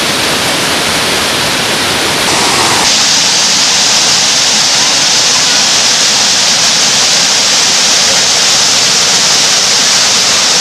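Water falling in a large waterfall: a loud, steady rush of noise. About three seconds in it turns brighter and a little louder.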